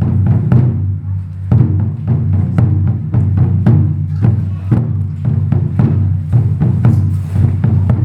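Japanese taiko drum ensemble playing, deep drum strikes coming several times a second in a driving rhythm.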